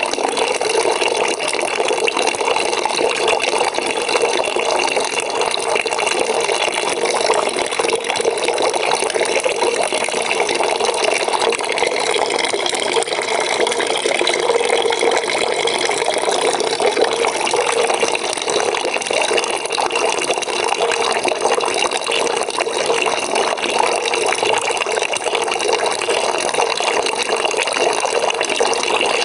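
Water running into a bucket as it fills: a steady, unbroken splashing.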